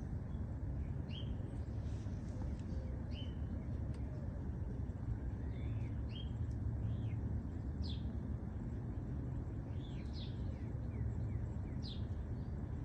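Birds chirping, short sharp calls about once a second, over a steady low rumble.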